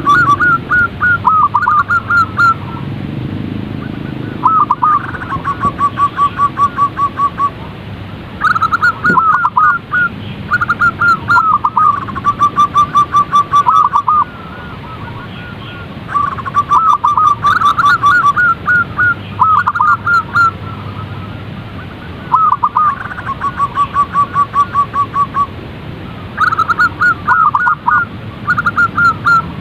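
Zebra dove song: phrases of rapid staccato cooing notes, each a few seconds long and repeated again and again with short gaps, over a low steady hum.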